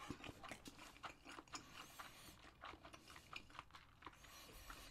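A person chewing a mouthful of sardine fried rice: faint, irregular small clicks and mouth smacks.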